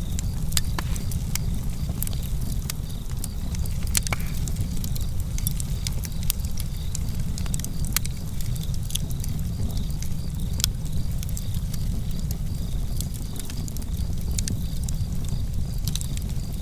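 Fire crackling: frequent sharp, irregular pops and snaps over a steady low rumble of burning.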